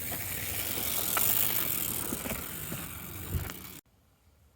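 Bicycle rolling over a sandy dirt trail: a steady crunching tyre noise with scattered small clicks and rattles, which cuts off sharply near the end.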